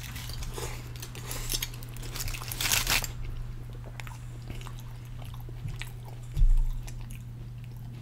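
A person bites into a lamb wrap in pita and chews it, close to the microphone, with a run of crunching in the first three seconds and then quieter chewing clicks. A dull thump comes about six and a half seconds in, and a steady low hum runs underneath.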